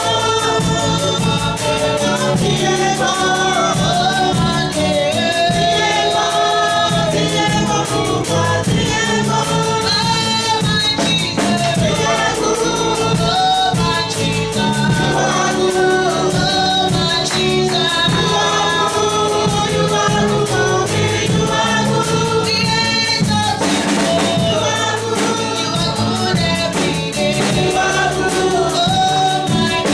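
Gospel choir singing with band accompaniment and a steady drum beat.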